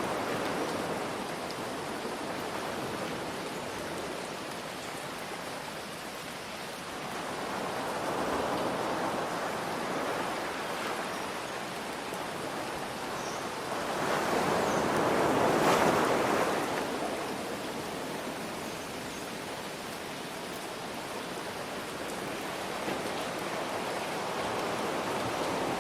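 Ocean waves washing ashore in slow swells under a steady hiss of light rain, with the biggest wave breaking about two-thirds of the way through.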